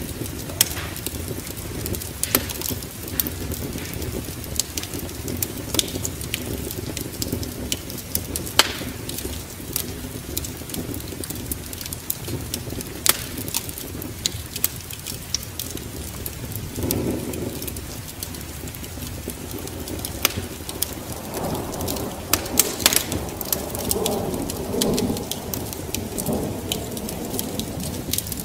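Wood fire crackling with frequent sharp pops over a steady hiss of rain and wind. A deeper rumble swells briefly about two-thirds of the way in and again for several seconds near the end.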